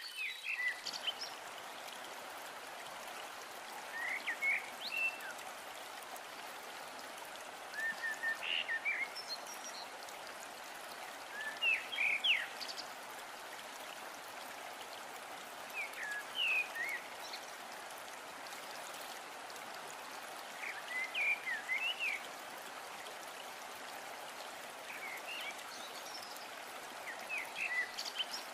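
Scrambled egg and onion-tomato masala sizzling steadily as they fry in a nonstick kadai. A short cluster of high squeaks or chirps comes about every four seconds.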